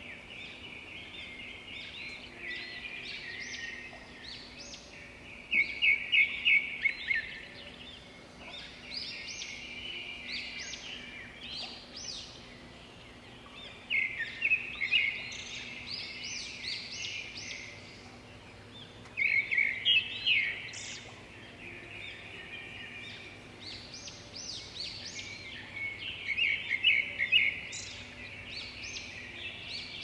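Birds singing in woodland: loud phrases of rapid high notes come every several seconds, with softer chirps between them.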